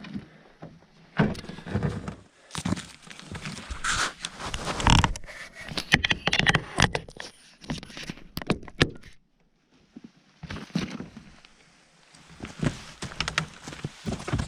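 Irregular knocks, thuds and scrapes, with a quieter gap of about two seconds a little past the middle.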